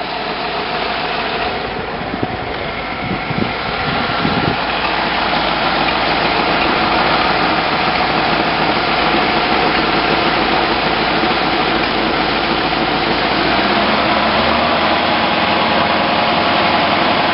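1956 Ford Thunderbird's V8 engine running steadily, getting a little louder about four seconds in.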